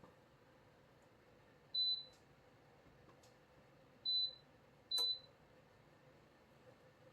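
A DREO space heater's control panel beeping three short, high electronic beeps, the last two close together, as settings are pressed. Faint clicks between them.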